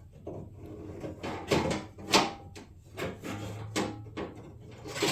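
Fender shroud parts and their packaging being handled and turned over: a series of irregular clacks and knocks, the loudest about two seconds in, with some rustling between them.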